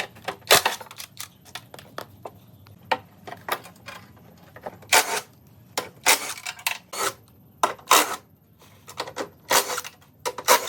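Irregular metallic clinks, taps and short scrapes from hand work on metal, some of them sharp single knocks and others lasting up to half a second.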